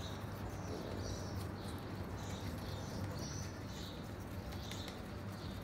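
A small bird chirping repeatedly, soft high notes about one or two a second, over a steady low electrical hum.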